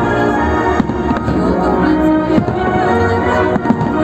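Music with sustained chords and a steady low bass, with firework shells bursting over it about four times as sharp bangs.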